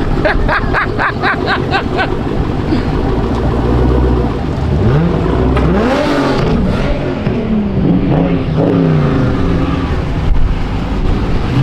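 Car engine revving repeatedly, its pitch climbing and dropping several times in the second half, over a steady engine rumble.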